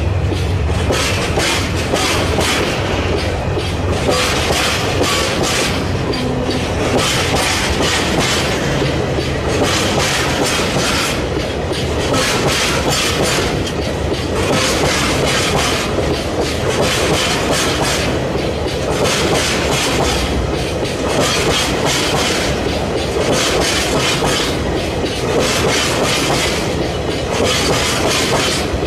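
Freight train of tank wagons rolling past close by. The wheels clatter over the rail joints in a steady clickety-clack that comes in repeating groups every second or two over a continuous rumble.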